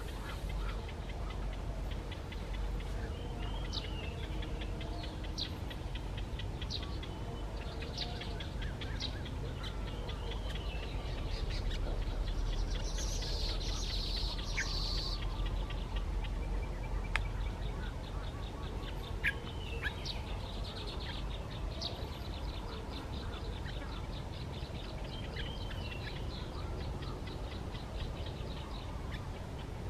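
Birds chirping and calling in short scattered notes over a steady low rumble, with a denser burst of high calling about halfway through and runs of rapid ticking calls near the end.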